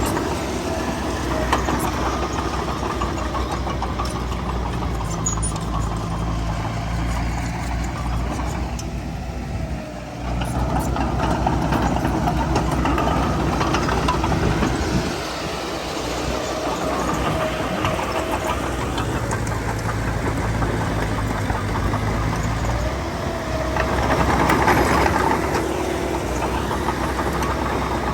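Heavy diesel engine of earthmoving machinery running under varying load. It dips briefly about a third of the way through, then picks up again and swells louder near the end.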